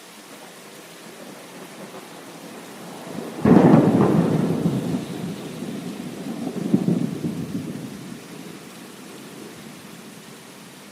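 Steady rain with a sudden clap of thunder about three and a half seconds in. The thunder rumbles on, swells again about three seconds later, then fades back into the rain.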